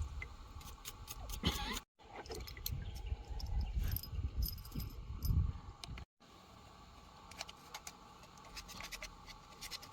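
Small metal fuel-pump parts clinking and scraping as they are handled and cleaned by hand: scattered light clicks and rubbing, busier in the first part and sparser later, broken by two brief gaps.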